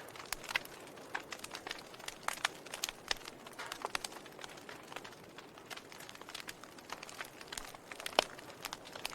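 Wood fire crackling in a fireplace: a steady hiss with many irregular sharp pops and snaps, the loudest pop a little after eight seconds in.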